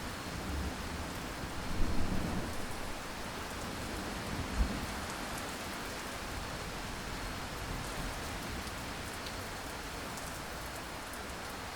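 Steady heavy rain falling, with a low roll of thunder about two seconds in.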